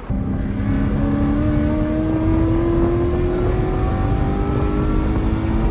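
Mercedes C63 AMG's 6.2-litre V8, with its secondary cats and resonators deleted, accelerating hard from inside the car. It comes on loud at once and climbs slowly and steadily in pitch through one long pull in a gear.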